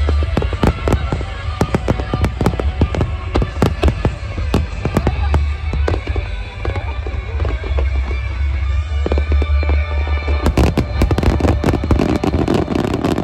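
Fireworks bursting in a rapid, dense barrage of bangs and crackles over a deep rumble, with music playing alongside. About ten seconds in the deep rumble drops away and thick crackling carries on.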